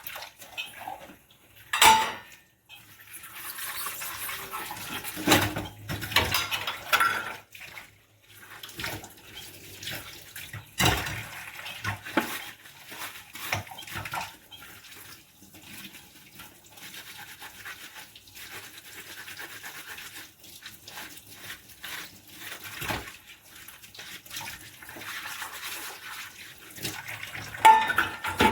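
Dishes being scrubbed by hand at a sink: long stretches of scratchy scrubbing strokes, with a few sharp clinks of dishes about two seconds in, around eleven seconds and near the end.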